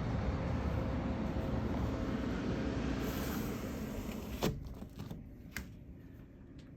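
Steady low rumble of a distant factory engine, which fades after about four seconds. A sharp click about four and a half seconds in is the loudest sound, and two lighter clicks follow near the end.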